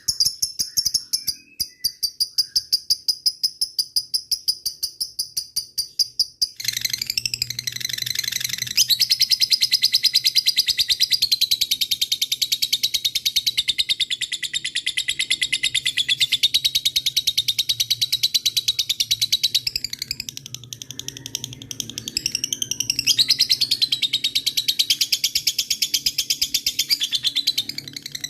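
Lovebird calling. First a quick series of sharp, evenly spaced chip notes, about five a second ('ngetik'). Then, about six seconds in, a long unbroken rapid chattering trill ('ngekek'), the long call lovebird keepers prize and use to set other birds calling.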